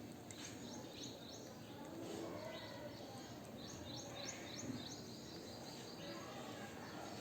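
Faint bird chirps: two short runs of quick, high chirps, one near the start and one about halfway, over a steady background hiss.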